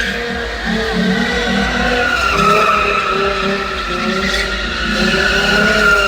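Car tires screeching in a long, continuous wheelspin, a sustained squeal that wavers slightly in pitch, with the car's engine running hard underneath.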